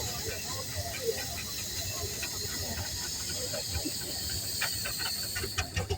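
Steady hiss of steam from miniature steam traction engines, with faint crowd chatter underneath; the hiss thins near the end as a run of quick clicks comes through.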